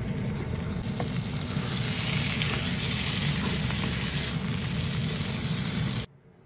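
Mochar ghonto (banana-flower curry) sizzling in a wok as a wooden spatula stirs it, with a few light scraping clicks over a steady hiss. The sound cuts off suddenly near the end.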